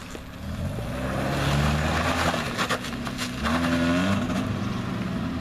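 Mazda Miata's swapped-in inline-four engine accelerating as the car pulls away on a test drive. Its pitch climbs, drops about three seconds in as for a gear change, then climbs again, with a few sharp clicks around the drop.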